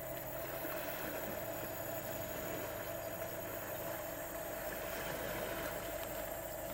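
An engine idling steadily, with a constant mid-pitched hum over it.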